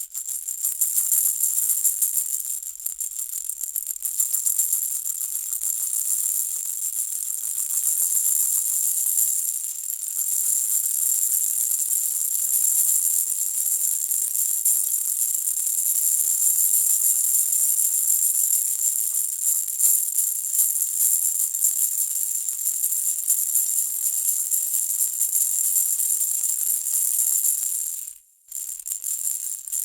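Baby rattle toy shaken continuously, a steady bright rattling of small beads or balls inside. It stops briefly about 28 seconds in and then resumes.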